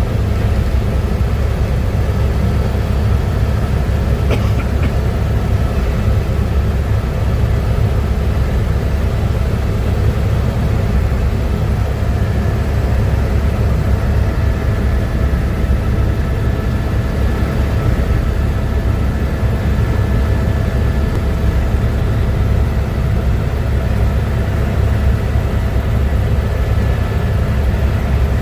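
Helicopter in flight, heard on board: a steady, loud, low rotor and turbine drone with a few faint steady whines above it.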